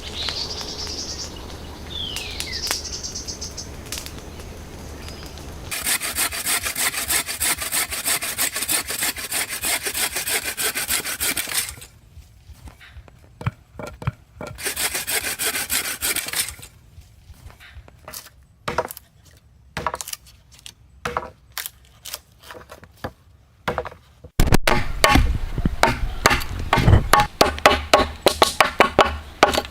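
Saw cutting through wood in runs of quick back-and-forth strokes. The runs are broken by pauses with scattered separate knocks, and a louder, heavier run of strokes starts near the end.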